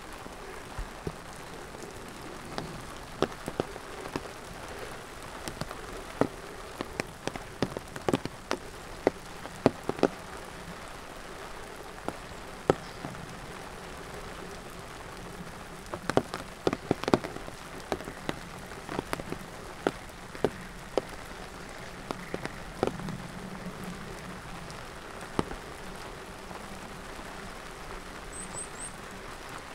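Steady rain falling, with many sharp, irregular drops tapping close by over the even hiss.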